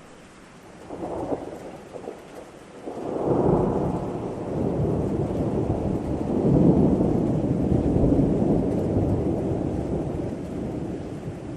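Thunder over steady rain: a short rumble about a second in, then a long low rumble that builds from about three seconds in, is loudest a little past the middle and slowly fades toward the end.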